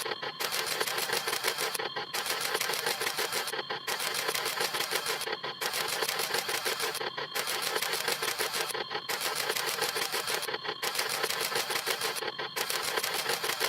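Camera shutter snap sound effect, rapid clicking in runs a little under two seconds long, each run broken by a brief pause.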